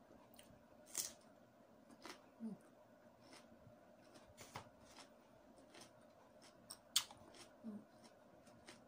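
Close-up chewing of raw cucumber: scattered crisp clicks and crunches at an irregular pace, loudest about a second in and again toward the end.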